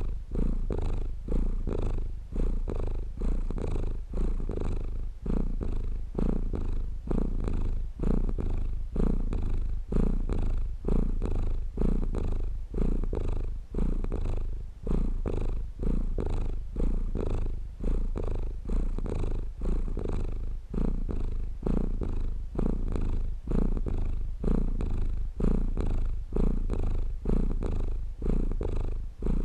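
Domestic cat purring, swelling and fading in a steady rhythm about once a second as it breathes in and out.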